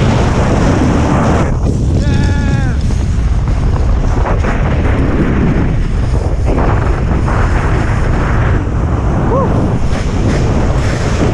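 Wind buffeting a GoPro's microphone in a blizzard, a loud, steady low rumble. Two brief pitched sounds cut through it, about two seconds in and again near the end.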